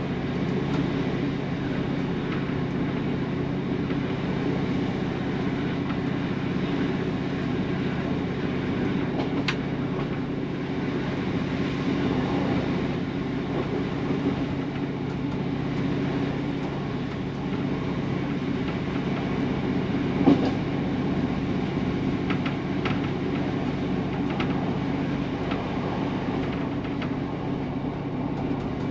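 Class 150 diesel multiple unit running along the line, heard from the driver's cab: a steady six-cylinder Cummins diesel drone over rail noise from the wheels. There is a sharp click about ten seconds in and a louder knock about twenty seconds in.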